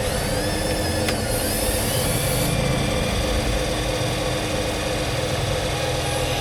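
1:14 scale RC construction machines running, with a steady simulated diesel engine rumble from their sound units. Over the first couple of seconds an electric motor whine rises and falls as the machine works, with a click about a second in and a brief hiss just after.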